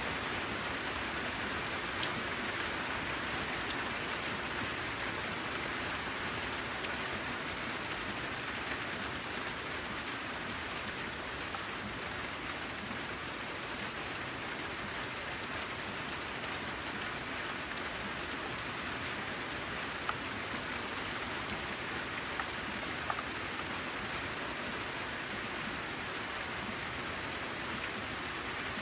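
Steady rain falling on a corrugated zinc roof: an even hiss with many individual drops tapping, a few louder single drops standing out.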